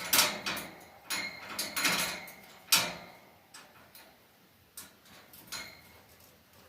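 A pet cockatiel making a run of irregular sharp clicks and taps, thickest in the first three seconds and sparser after, a few with a brief ringing tone.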